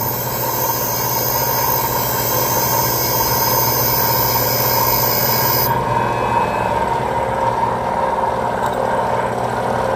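Valve refacing machine grinding an intake valve face at 44.5 degrees, one degree off the 45-degree seat to give the interference angle. The motor and stone run with a steady hum and whine, and the higher hiss drops away a little over halfway through.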